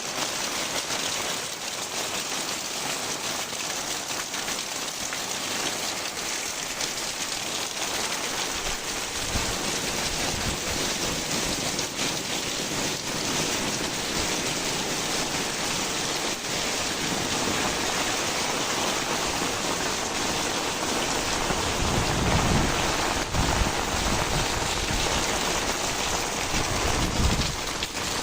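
Heavy rain falling steadily. Low rumbles join it about a third of the way in and are strongest a little past two-thirds of the way through and again near the end.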